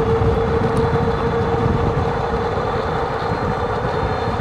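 Electric bike motor whining steadily at one pitch while the bike climbs a gentle grade at about 24 mph, over a low rumble of wind and tyre noise.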